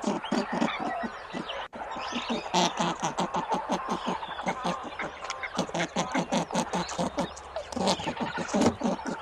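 Domestic fowl giving a fast run of short, sharp calls, several a second, with a brief cut in the sound about two seconds in.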